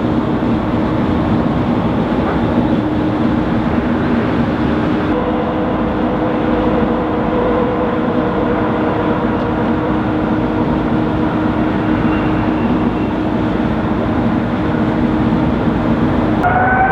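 Boeing 777 jet engines running: a loud, steady roar with a low hum and a faint whine, and a second steady tone joins about five seconds in.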